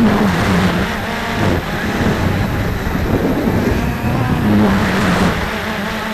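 Wind buffeting the microphone, with a Cheerson CX-20 quadcopter's motors whining underneath. The motors' pitch wavers up and down as the quadcopter struggles to hold its position against strong wind.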